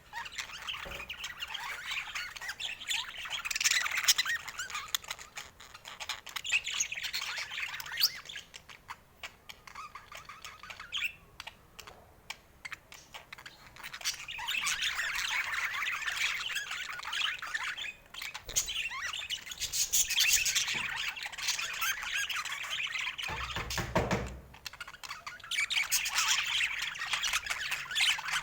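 Budgerigars chattering and warbling in long, dense stretches, with a quieter pause of a few seconds about a third of the way in.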